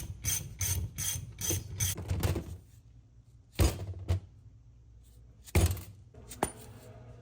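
Ratchet wrench being worked in quick, even strokes, clicking about three times a second for roughly two and a half seconds. After that come a few separate metallic knocks.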